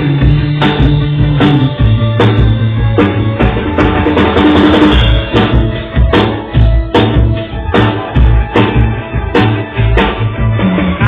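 Rock music with a drum kit keeping a steady beat of hits under sustained low guitar and bass notes, with a cymbal wash about four seconds in.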